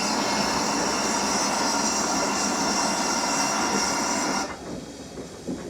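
Locomotive shunting at a railway station: a loud, steady rushing noise that cuts off suddenly about four and a half seconds in.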